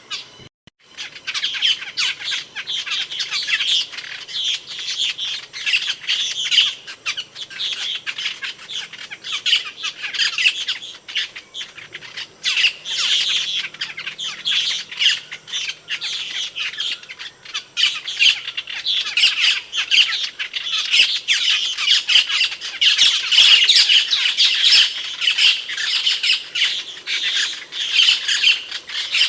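Asian glossy starling (cucak keling) calling: a dense, unbroken run of loud, sharp, squeaky call notes, many per second, after a brief pause just at the start.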